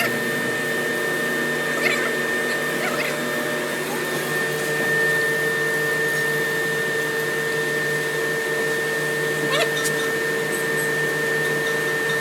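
Workshop machinery running steadily with a constant hum and high whine over a hiss, and a couple of brief squeaks about two seconds in and near the ten-second mark.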